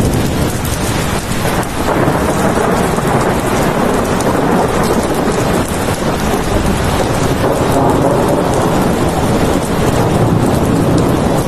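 Steady heavy rain: a dense wash of drops with many small splatters, over a deep low rumble.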